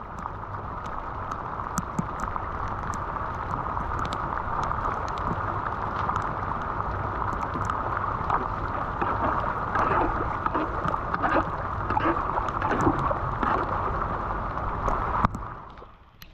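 Floodwater pouring steadily into a street drain, with gurgling and splashing, cutting off abruptly near the end.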